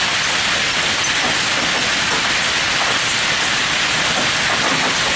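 Hailstorm: hail and heavy rain beating down steadily in a dense, even patter.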